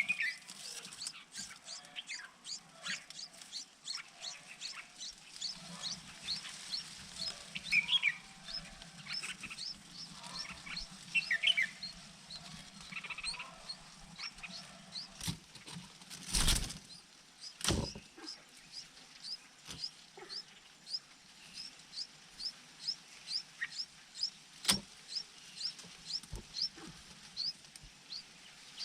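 Birds chirping: a thin, high chirp repeated about twice a second, with a few louder, lower calls in the first half. Two sharp knocks come about halfway through.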